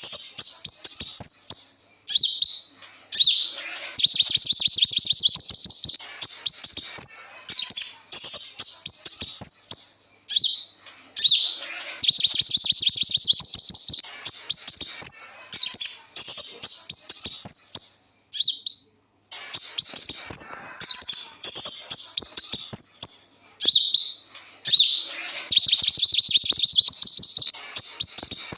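Sunbird known to Indonesian birdkeepers as 'kolibri ninja' singing: high-pitched, fast twittering phrases of a few seconds each with trills and rapid runs, separated by short pauses.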